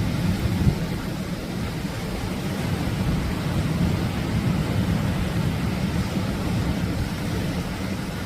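Atlantic waves breaking on a beach: a steady, deep rumbling wash of surf that swells a little midway.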